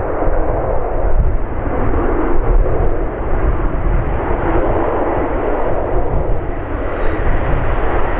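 An airliner's engines running with a steady noise as the aircraft passes, with wind buffeting the microphone and making a low rumble.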